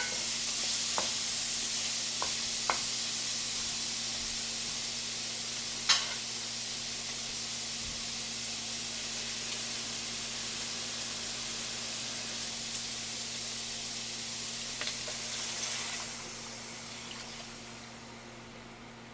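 Food frying in a pan: a steady sizzle with a few sharp clicks of a utensil against the pan, the loudest about six seconds in, over a low steady hum. The sizzle dies away near the end.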